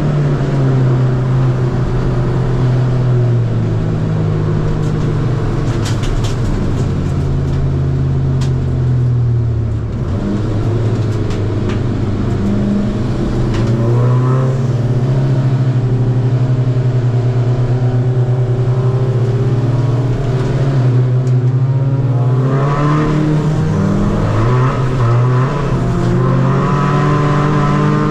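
Tuned 2.0 common-rail diesel engine of a Seat Ibiza FR, with race camshafts and a Garrett turbo, driven hard on track. Its note rises and falls with throttle and gear changes, dropping about ten seconds in and climbing again in several pulls after that.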